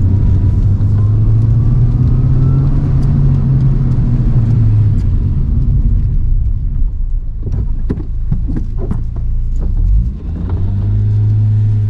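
Toyota AE111 Trueno's engine heard from inside the cabin, pulling under load with the revs rising over the first few seconds. It eases off about halfway through, with several sharp clicks, then pulls hard again near the end.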